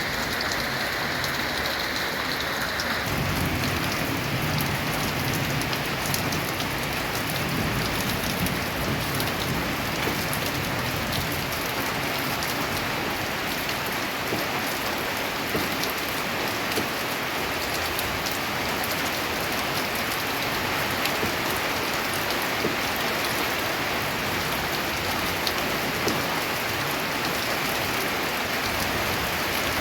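Steady monsoon rain drumming on a corrugated tin roof, with scattered sharp drop ticks over a constant wash.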